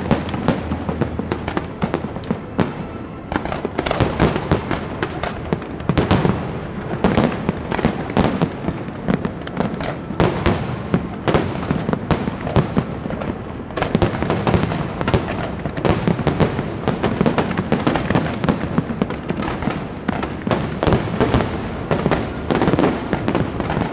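Aerial fireworks bursting in a dense, continuous barrage of bangs and crackles, many per second.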